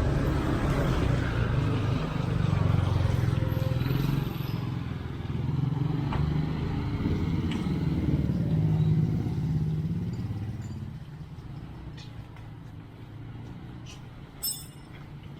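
A motor vehicle's engine running close by for about ten seconds, then fading away as it moves off. A brief high squeak comes near the end.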